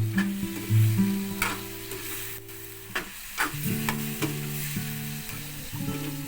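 Food sizzling in a pan while a utensil stirs it, with several short scrapes, over soft acoustic guitar music.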